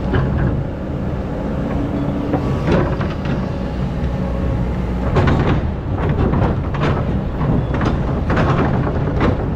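Excavator engine running steadily under load, with the bucket scraping and knocking several times as it cuts into hard, compacted sand.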